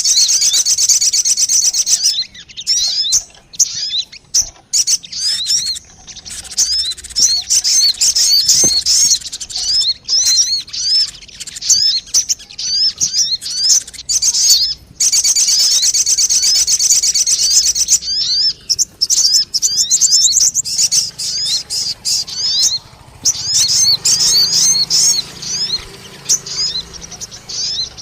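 Sogon bird lure calls: rapid, high-pitched chirps and trills in long runs, broken by short pauses, played to attract the same species.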